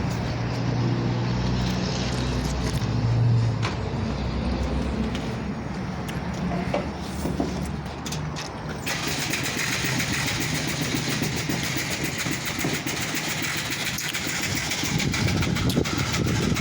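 An engine running steadily. About nine seconds in, a steady rushing hiss joins it.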